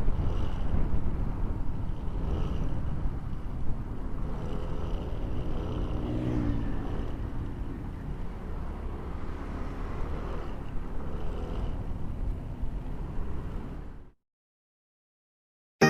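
Motorcycle ride heard on an action camera: wind rushing over the microphone with the engine running underneath, fading out to silence about fourteen seconds in.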